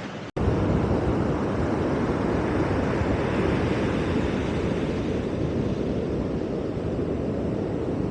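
Ocean surf breaking on the beach in strong wind: a steady, dense rush that begins after a brief dropout near the start.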